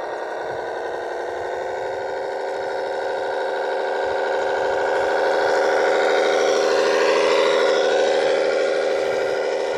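Radio-controlled model machine's motor whirring steadily. It grows louder to a peak about seven seconds in, then eases off.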